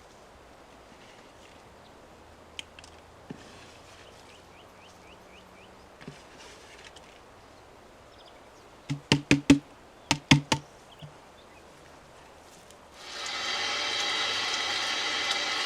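A quick series of about seven sharp knocks with a dull thud to them, followed near the end by a loud, steady rasping noise that fades in and keeps going.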